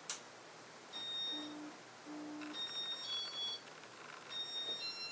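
A click, then a tune of short electronic beeps stepping between pitches, with two lower notes early on, from a Casablanca ceiling fan's RMM4 control board as the fan starts its demo mode.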